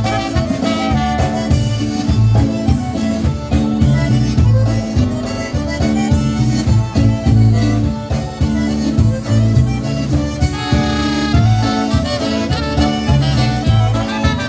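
Live polka band playing an instrumental passage with a steady oom-pah beat: bass notes alternating under accordion and horns.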